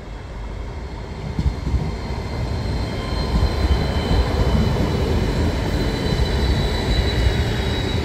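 Italo high-speed electric train running through the station at speed. Its wheels rumble louder as it comes level and the cars stream past, with a high whine over the rumble from about three seconds in.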